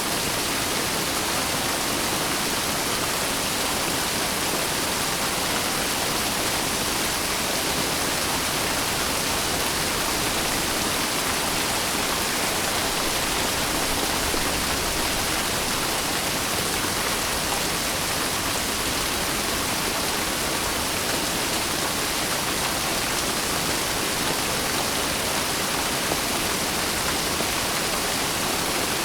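Steady rain falling, a dense, even hiss that holds the same level throughout, with no single drops or claps standing out.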